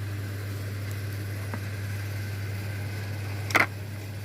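A steady low hum throughout, with one sharp knock about three and a half seconds in.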